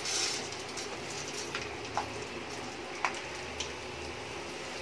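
Pumpkin seeds and almonds frying in ghee in an iron kadhai, a soft steady sizzle that is briefly louder at the very start, with a few sharp clicks scattered through.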